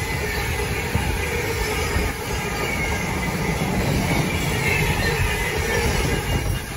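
Freight train of empty flat wagons running through on the rails: a steady rumble of wagon wheels with a high wheel squeal coming and going. It eases off slightly near the end.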